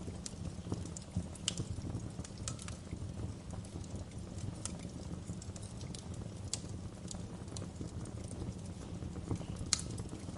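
Wood fire in a fireplace crackling, with irregular sharp pops over a steady low rumble; one louder pop near the end.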